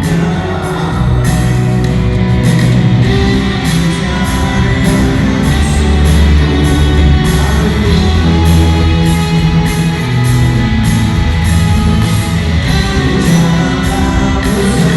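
Live rock band playing a song: loud drum kit with a steady, evenly repeating cymbal beat over sustained bass notes and electric guitar.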